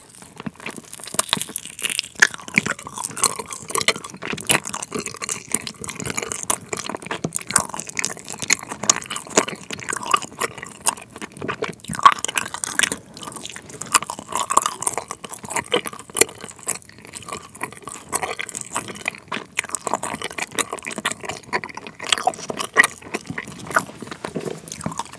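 Close-up chewing of a Trolli Planet Gummi, a firm, bouncy gummy shell with a liquid sour jam filling. It makes a dense, irregular run of small mouth clicks and smacks as it is bitten and chewed, described as very chewy.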